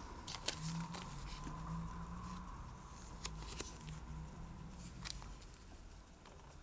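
Small, sharp metal clicks and taps, about half a dozen spread irregularly, from watchmaker's tools such as tweezers and a small screwdriver working on a Seiko Kinetic watch movement during a battery capacitor change.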